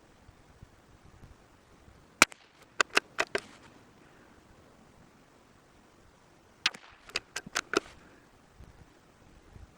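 .22 LR bolt-action rifle firing a single short, sharp shot about two seconds in, followed by a quick series of metallic clicks as the bolt is worked. A second run of bolt clicks comes around seven seconds in.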